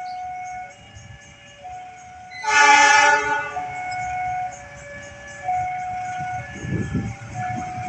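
Railroad level-crossing alarm sounding, alternating between two tones about once a second. A single short, loud blast of the approaching Argo Cheribon train's locomotive horn comes about two and a half seconds in.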